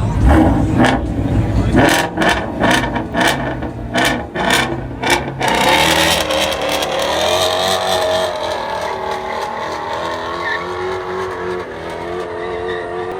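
Car engine revving hard with a quick series of about eight sharp cracks over the first five seconds, then a long, sustained engine note as the car accelerates away, slowly fading.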